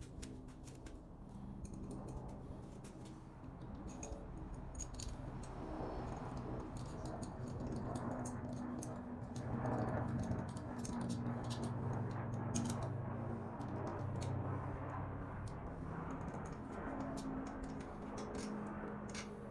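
Many light metallic clicks and clinks of tools and exhaust parts being handled, over a steady low hum that grows louder around the middle.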